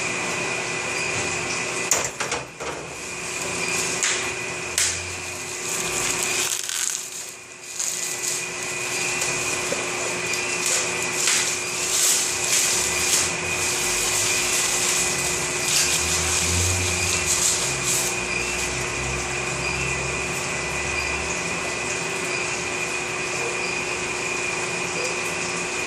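Small electric gold-melting furnace running with a steady hiss and a constant high whine and lower hum, with scattered clicks and knocks, and a brief drop in level about seven seconds in.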